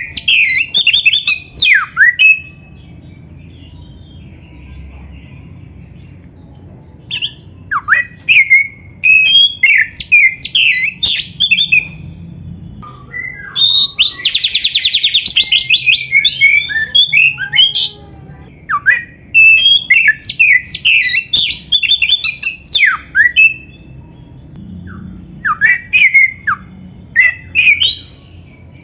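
Oriental magpie-robin (kacer) singing in loud bursts of quick sliding whistles and harsh squawking notes mixed with mimicked phrases, with a fast buzzy trill about halfway through. Gaps of a few seconds separate the bursts.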